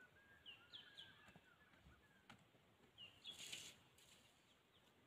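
Near silence with a few faint, short bird chirps that fall in pitch, about half a second to a second in and again about three seconds in.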